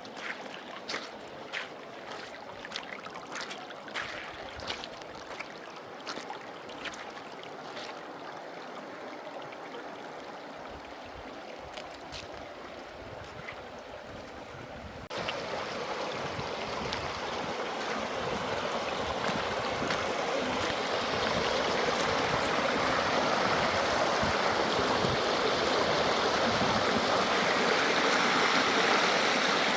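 Running water, a steady rushing like a mountain stream. Over the first half a scatter of sharp clicks and taps rides on a quieter wash; about halfway through it cuts suddenly to a louder, fuller rush that swells a little toward the end.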